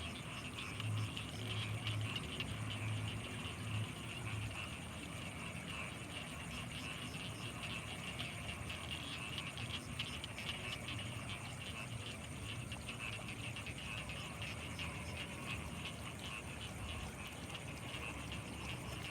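Night chorus of frogs and insects by rice fields: dense, rapid pulsing calls with a steady high insect whine above them, and a few low throbs in the first few seconds.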